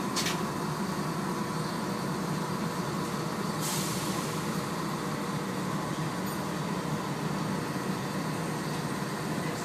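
Steady hum of a ScotRail passenger train at a station, with a sharp hiss of released air, as from the brakes or doors, about three and a half seconds in that fades away.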